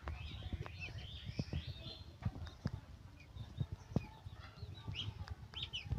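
Birds chirping in short, scattered calls, over a low rumble with irregular soft knocks.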